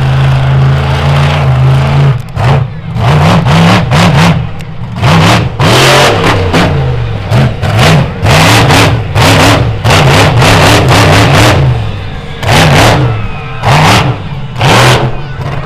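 Monster truck engine running steadily for about two seconds, then revved in a long string of quick, loud throttle bursts, each rising and falling in pitch.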